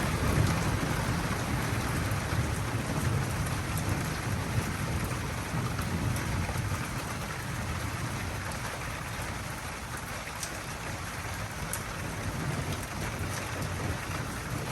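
Steady rain falling during a thunderstorm, with a low rumble of thunder that eases off over the first half, and a few sharp drips in the second half.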